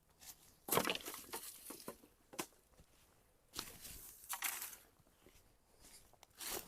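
Dry leaves and twigs crunching and crackling in irregular bursts as firewood is gathered on foot through brush.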